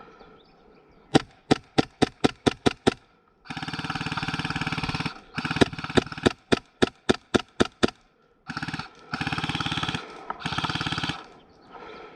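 Airsoft electric guns firing: a string of rapid single shots, about five a second, then a full-auto burst. A second run of single shots follows, then three short full-auto bursts.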